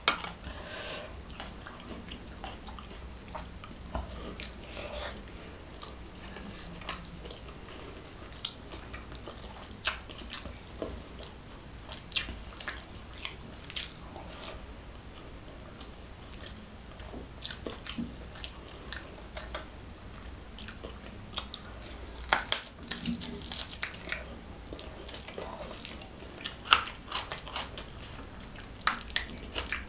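Close-miked eating sounds: biting and chewing curried boiled egg and rice eaten by hand, with irregular wet mouth clicks and smacks, a few louder ones near the end.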